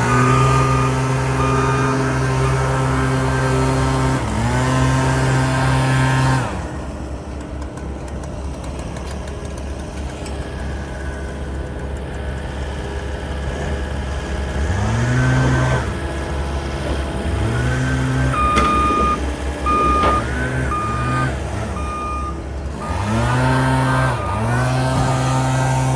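A heavy work machine's engine running and revving up and down in steps as it works, with a reversing alarm beeping in short repeated beeps for several seconds in the middle.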